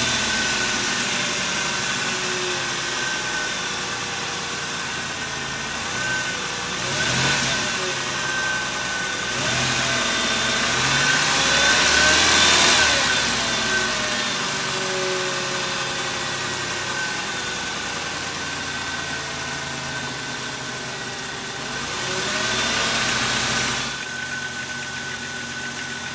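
2005 Dodge Caravan's 3.8-litre V6 running just after starting, turning its newly fitted alternator and serpentine belt, with a steady high whine over it. The sound swells and falls back three times: about a quarter of the way in, around the middle, and near the end.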